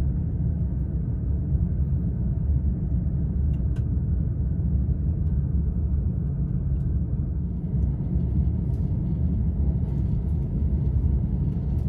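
Steady low running rumble of a local commuter train, heard from inside the carriage while it is moving, with a couple of faint clicks about four seconds in.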